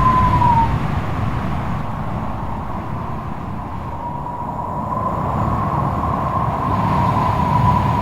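Strong wind gusting with a low rumble and a howling whistle that wavers in pitch. The whistle fades about half a second in and swells back from about four seconds in as the gust builds.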